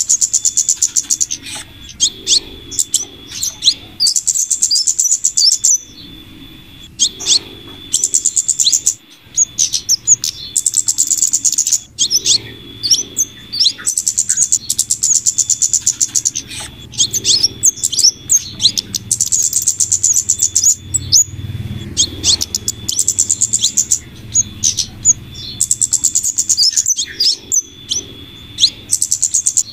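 Bird-lure recording of flowerpecker calls combined with female scarlet minivet calls. Fast, high ticking trills of a second or two repeat every few seconds, with sharp single chirps between them, over a thin steady high tone.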